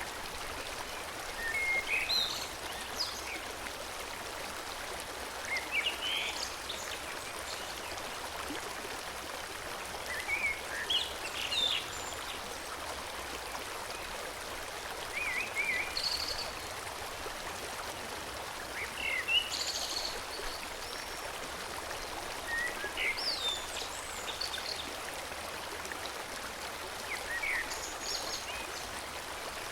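Forest stream flowing steadily, with a songbird singing short chirping phrases about every four seconds.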